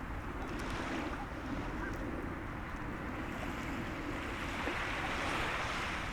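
Sea waves washing onto the shore with wind, one wave's wash swelling near the end.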